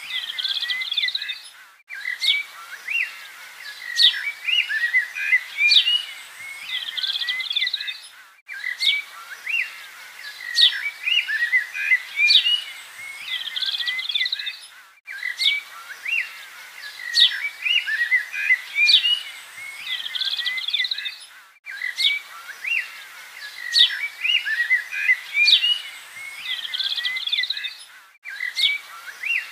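Birds chirping and singing, a recorded loop: the same stretch of birdsong repeats about every six and a half seconds, each pass broken by a brief gap of silence.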